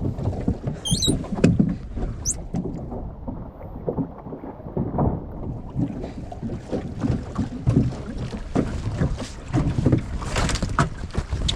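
Short, choppy waves slapping and knocking irregularly against the hull of a small sailing dinghy, with wind noise.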